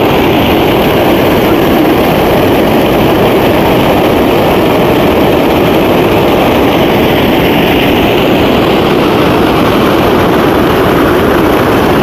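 Stream water pouring over a low concrete weir and crashing into the pool below: a loud, steady rush.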